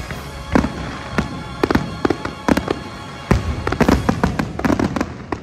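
Aerial fireworks bursting in the sky: many sharp bangs in quick, irregular succession, coming thickest in the last two seconds before they die away.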